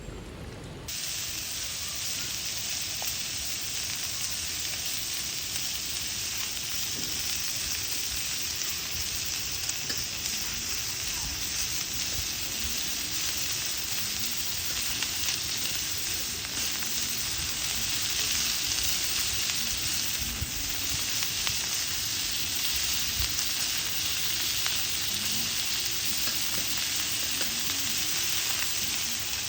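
Food frying in a pan, a steady sizzle that starts abruptly about a second in.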